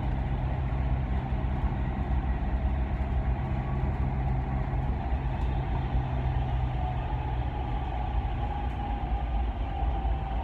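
Dubai Metro train running, a steady low rumble and hum with a faint whine that grows clearer near the end.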